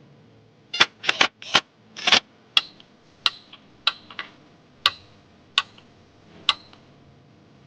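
A dozen or so sharp metallic clicks and clinks at uneven spacing, some with a brief ring, from hand tools and engine parts being handled during engine reassembly.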